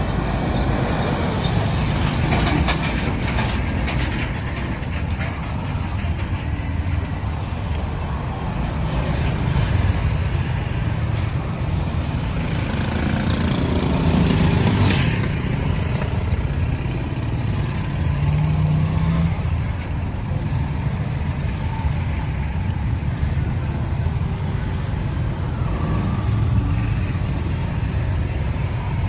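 Road traffic noise: engines running and tyres on the road in a steady rumble, with a vehicle passing close about halfway through in a louder hissing rush.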